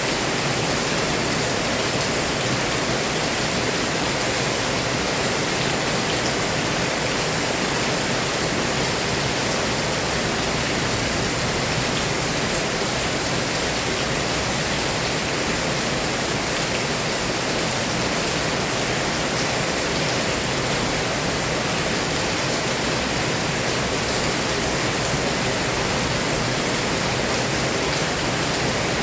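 Heavy rain pouring down steadily, a dense and even hiss.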